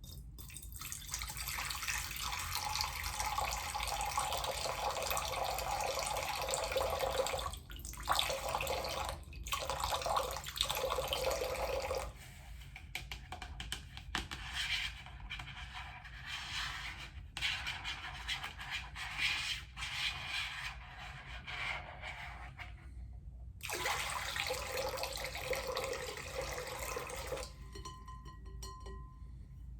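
Water poured into a bowl, several times over with short breaks: a long steady pour, a few shorter ones, a softer trickling stretch, then one more strong pour of a few seconds that stops shortly before the end.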